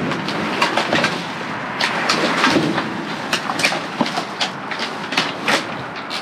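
Irregular clanking and rattling of discarded junk, including metal parts, being handled and pulled through while scrapping, with many sharp knocks scattered throughout.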